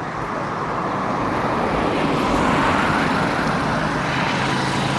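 A motor vehicle passing on the road: a rushing noise that grows louder over the first couple of seconds, then holds, with a low engine hum coming in near the end.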